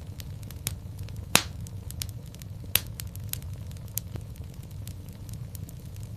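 Wood fire crackling in a fireplace: a steady low rumble of flame under irregular small snaps, with two sharp, louder pops about one and a half and three seconds in.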